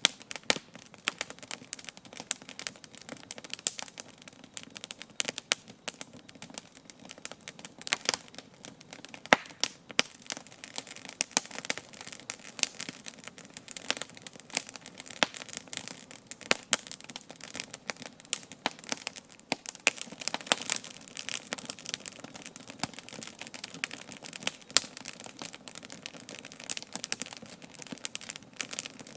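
Wood campfire burning, crackling with dense, irregular pops and snaps over a soft hiss.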